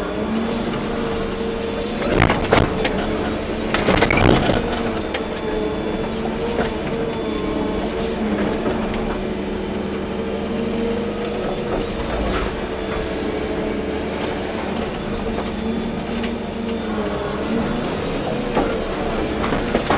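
Volvo EC240B excavator's diesel engine running steadily under working load, with clattering knocks about two and four seconds in.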